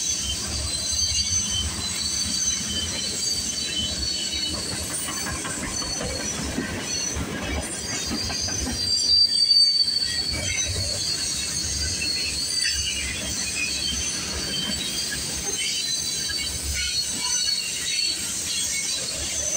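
CN freight train of tank cars rolling past, steel wheels squealing on the rails over a steady rumble. The squeal is loudest about halfway through.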